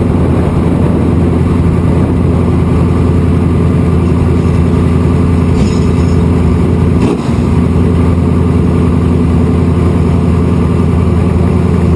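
Open-wheel Indy-style race car engine running hard at a steady, high speed, its pitch holding constant, with a brief dip in loudness about seven seconds in.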